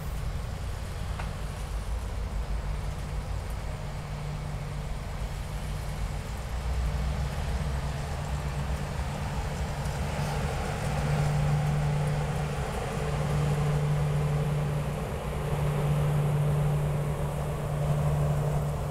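Passenger cars of a train rolling past at trackside: a steady low rumble of wheels on the rails, with a low hum that swells and fades three times in the second half as the cars go by.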